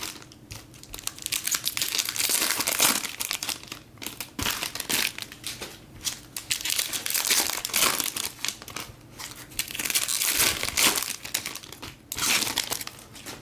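Foil trading-card pack wrappers crinkling and tearing in repeated, irregular bursts as hobby packs are ripped open.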